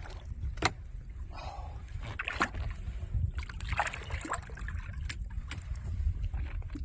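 Water sloshing and splashing at a boat's side as a large northern pike is held in the water for release, with short sharp splashes over a steady low rumble.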